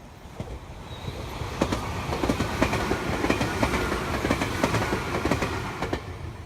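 Meitetsu electric train passing, its wheels clacking over rail joints in a quick run of clicks; the sound builds over the first two seconds and dies away near the end.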